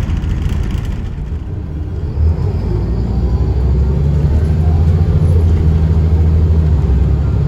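Scania L94UB bus's DSC9 nine-litre six-cylinder diesel running with a steady low drone. It grows louder about two seconds in, just after a short knock, and then holds steady as the engine works harder.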